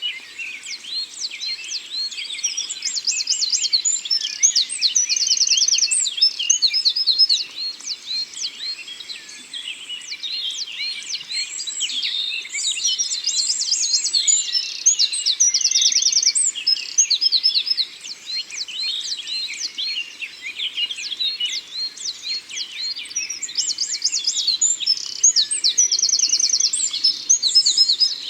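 A chorus of songbirds in a forest, many birds chirping and whistling at once. One bird's rapid trill comes back about every ten seconds.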